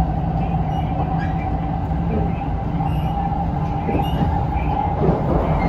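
Shinkansen train running on the Hakata-Minami Line: a steady low rumble with a held whine over it.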